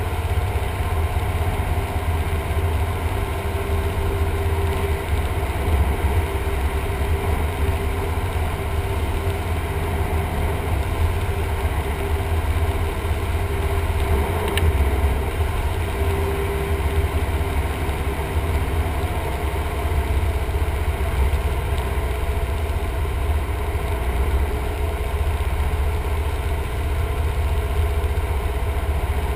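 Cessna 172M's Lycoming O-320 four-cylinder engine and propeller running at a steady, unchanging power.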